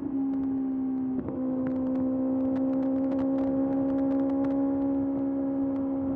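Kawasaki ZX-6R's inline-four engine running under way at steady revs, with a brief dip in the note about a second in, then holding and climbing slowly.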